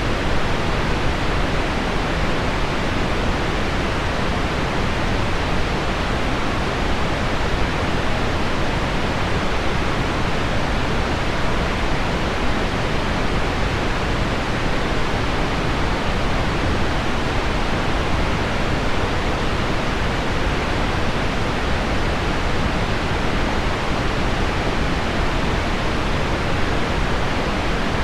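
Synthetic pink noise blended with a recording of heavy rain on window glass: a dense, even rushing noise with little treble that holds steady without change.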